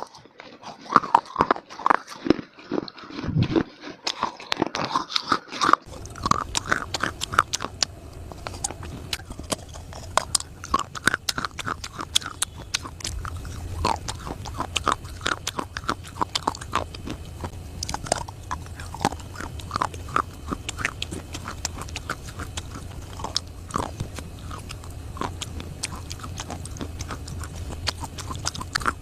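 Close-miked biting and chewing of dry, brittle clay: many sharp crunches in quick succession. A steady low hum sits underneath from about six seconds in.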